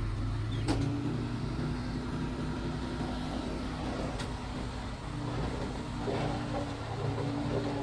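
A Mitsubishi bulldozer's diesel engine running steadily under work, with a held whine over its low hum and two sharp metallic clicks, about a second in and about four seconds in.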